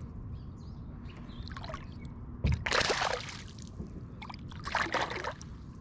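Water splashing at the kayak's side in two short bursts about two seconds apart, over a low steady rumble.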